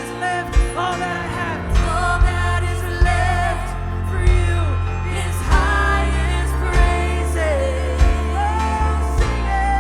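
A live worship band plays a contemporary Christian song, with drums, bass and keyboards under a sung melody.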